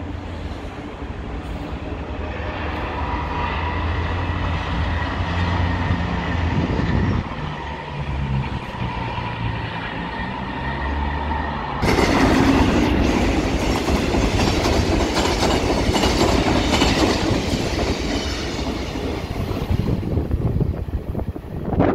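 Passenger train passing at close range. In the first half there is a low rumble under a steady high whine. About halfway through it gets suddenly louder, a rushing noise with rapid, regular clatter of the wheels on the rails, which eases near the end.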